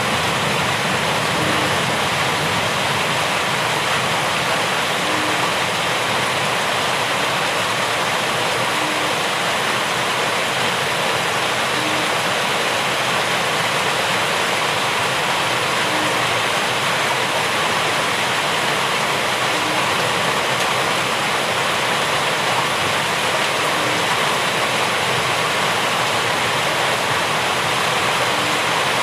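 Steady, heavy rainfall, an even unbroken hiss of water.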